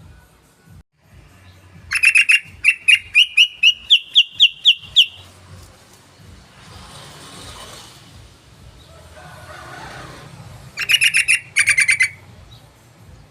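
Yellow-vented bulbul (trucukan) song: a fast run of about a dozen sharp chirping notes that climb in pitch over three seconds, then a second, shorter rapid burst near the end.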